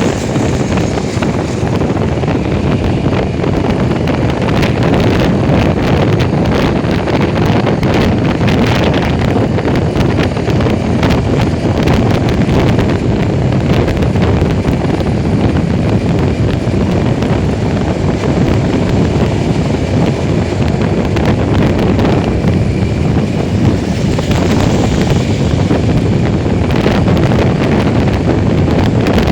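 Wind rushing over the microphone of a moving motorcycle, with steady vehicle and road noise underneath.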